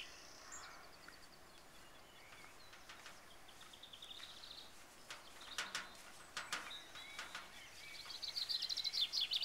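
Songbirds singing, with rapid high trills that are loudest near the end, over a faint outdoor hiss. A few short clicks or knocks in the middle.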